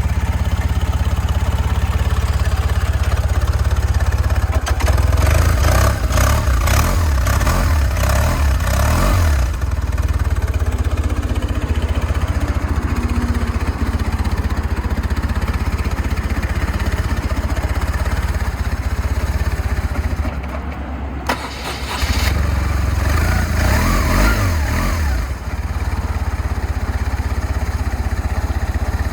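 BMW R1200C Montauk's air/oil-cooled boxer twin engine idling, with the throttle blipped in two spells of rising and falling revs, about five seconds in and again past the twenty-second mark.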